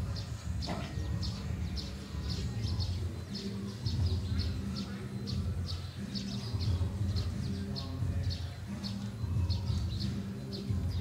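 A bird chirping over and over, short high chirps about three a second, with a low pitched rumble coming and going underneath.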